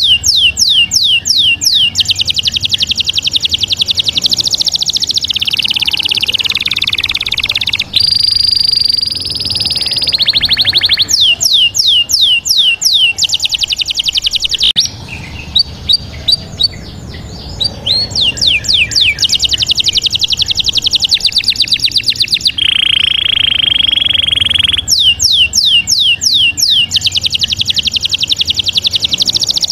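Bird song: loud, repeated phrases of quick falling whistles, rapid buzzy trills and held high notes, with a short quieter gap about halfway through.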